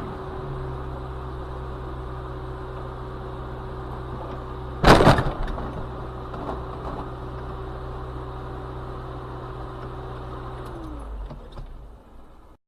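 Car running with a steady low hum, broken once about five seconds in by a single sharp, loud bang; the hum fades out near the end.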